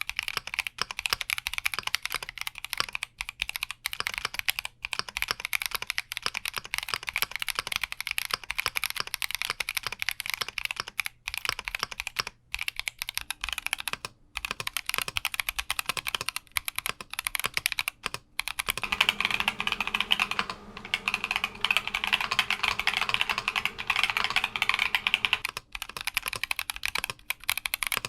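Continuous fast typing on a Keychron Q60 mechanical keyboard, dense keystroke clacks with a few brief pauses.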